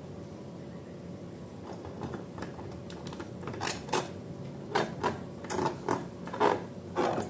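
Hands working slime-making materials: after a steady low background hum, short irregular clicks and taps start about three seconds in, roughly two a second.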